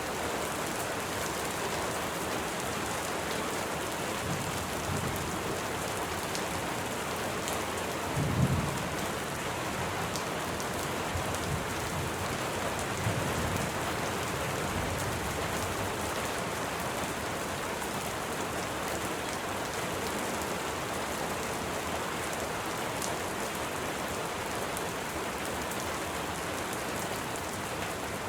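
Steady, even rain with low rumbles of thunder. The loudest rumble comes about eight seconds in, and a few weaker ones follow over the next five seconds or so.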